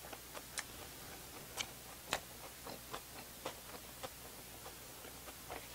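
Close-miked chewing of soft bread with the mouth closed: faint, irregular wet mouth clicks, about two a second.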